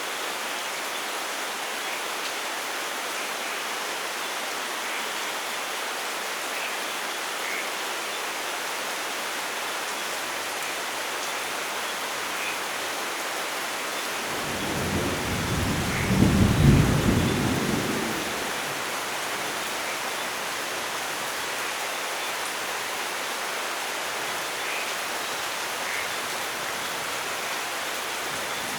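Steady heavy rain hissing, with one roll of thunder rumbling up about halfway through, peaking a couple of seconds later and fading out within about four seconds.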